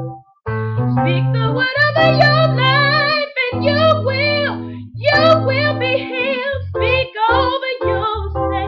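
Gospel song performed by a woman singing long, wavering vibrato runs with no clear words over instrumental accompaniment of held chords and bass notes.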